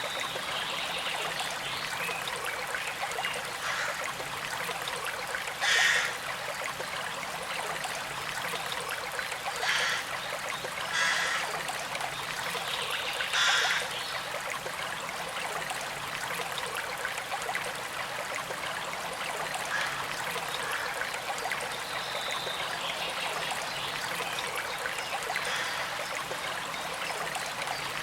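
Shallow stream trickling and flowing steadily. Four brief, louder splashes of water stand out in the first half.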